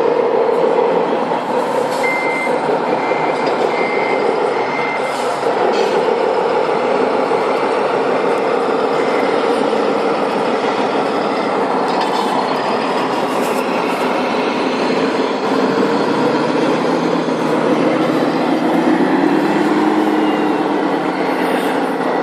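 Sound modules of 1:14-scale RC model trucks playing a truck engine sound, with a reversing beeper sounding a handful of short beeps a few seconds in. The engine note rises and falls near the end.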